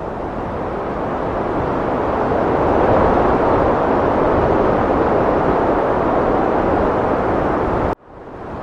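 Heavy wind blowing in a steady rushing roar that swells over the first few seconds, then cuts out abruptly near the end and quickly builds back up.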